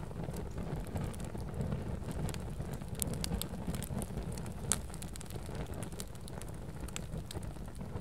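Fire crackling: a steady low rumble with scattered sharp pops, the loudest a little under five seconds in.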